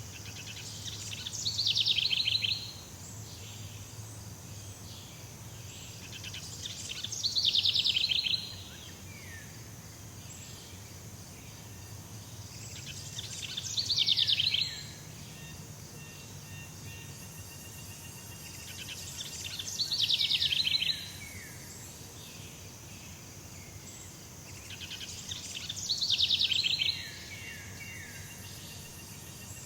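A bird in jungle ambience repeating the same song about every six seconds, five times: a rapid buzzy trill that swells and stops abruptly, trailing off in a few short falling notes. A steady high insect hiss runs underneath.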